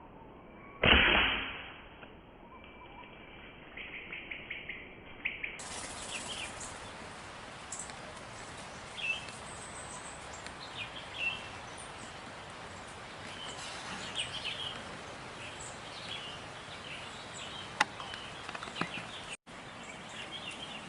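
A single air rifle shot about a second in, a sharp crack that tails off over about a second. Then a quick run of clicks, and birds chirping now and then over steady outdoor background.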